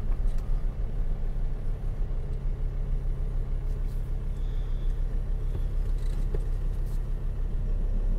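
Car engine running, a steady low hum and rumble heard from inside the cabin.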